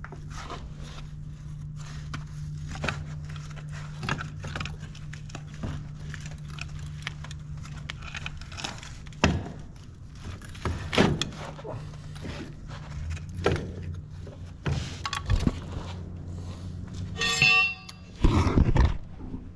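Irregular metallic clanks and knocks of tools and track-chain parts being handled, over a steady low hum. A brief high squeal comes near the end.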